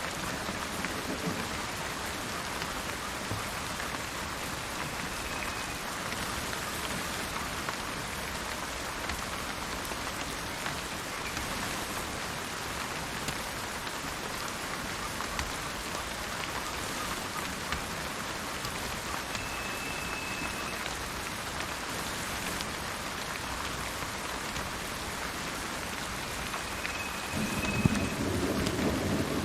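Steady rain falling, with a low rumble of thunder swelling near the end. Three brief, thin, high whistled bird notes sound over the rain.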